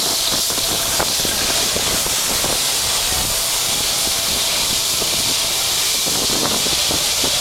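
Jet airliner engines running at takeoff power just behind the runway end: a loud, steady hiss of jet blast and exhaust with a low rumble under it.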